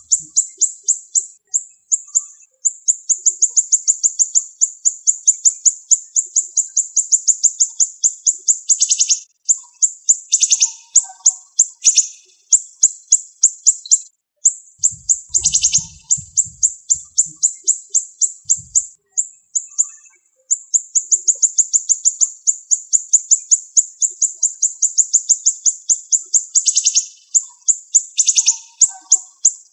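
Siri-siri songbird singing fast, tightly packed strings of sharp high chirps, each run lasting several seconds with brief pauses between, punctuated now and then by a louder, lower-reaching note.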